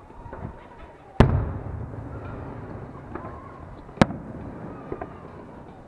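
Aerial fireworks going off: a loud bang about a second in, followed by a long rumbling echo, then a second sharp bang about four seconds in, with a few small pops between.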